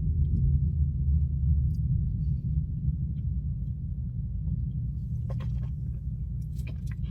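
Low steady rumble of a car idling, heard inside the cabin, strongest in the first couple of seconds. A few faint clicks come near the end.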